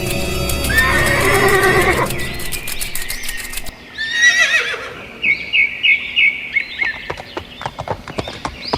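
A horse whinnying twice in long, wavering, falling calls, then a string of short calls, then hooves clip-clopping at a quick, even pace near the end.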